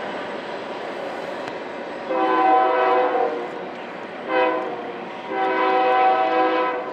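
BNSF freight locomotive's multi-chime air horn sounding a long blast, a short blast, then another long blast over the steady rumble of the passing train.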